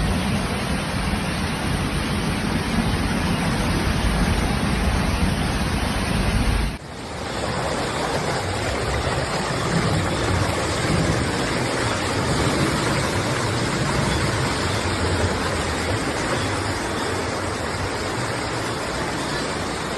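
Steady rushing noise of a heavy rainstorm, deep and rumbling at first, changing abruptly to a brighter, more even hiss about a third of the way through.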